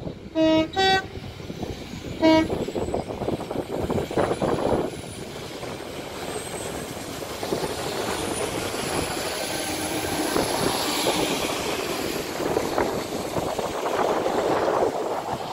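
Northern Class 195 diesel multiple unit sounding its two-tone horn in three short blasts, low, high, then low again after a short pause. It then runs past with a steady rumble of engine and wheels on the rails that grows louder toward the end.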